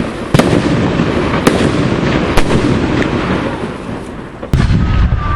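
Fireworks display: a continuous rumble and crackle of bursting shells, with sharp bangs every second or so and a heavy boom near the end.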